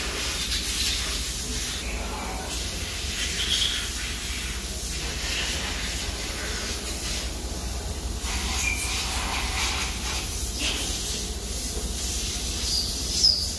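2008 Tahoe V8 engine idling steadily after its valve lifters were replaced, running without a misfire: a constant low hum under a steady hiss. A short high squeak stands out near the end.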